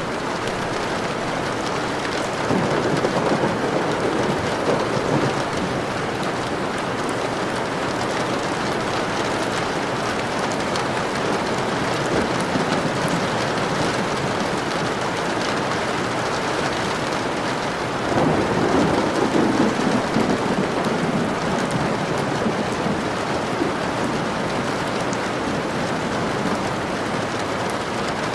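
Steady rain with two low rolls of thunder, one a few seconds in and one about two-thirds of the way through.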